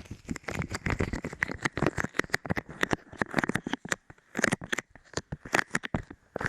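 Light modelling clay pressed and squished against the microphone, giving a fast run of sticky crackles and pops that thins out to scattered clicks after about four seconds.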